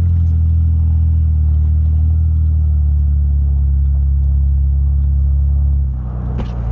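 Jeep engine running steadily under load as the Jeep drives through deep snow, a low drone that eases off slightly about six seconds in.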